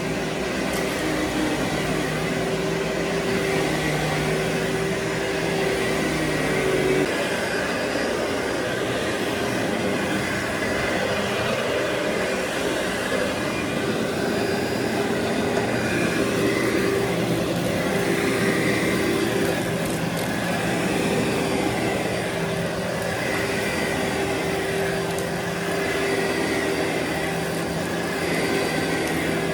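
Vacuum cleaner running steadily over a heavily soiled carpet, a constant motor hum and airflow noise; the deep low rumble drops away about seven seconds in.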